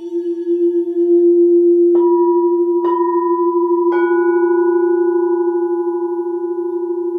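Singing bowls: one bowl holds a steady low tone with a slow pulsing wobble, and three bowls are struck in turn about two, three and four seconds in, their higher tones ringing on over it.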